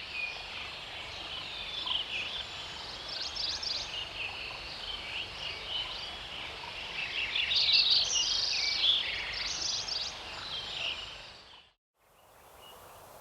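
Field recording of a forest meadow: a dense chorus of many songbirds chirping and trilling over the steady rush of a stream. About twelve seconds in it breaks off and the same meadow's recording from a year after selective logging follows: the stream alone, fainter, with the birds gone.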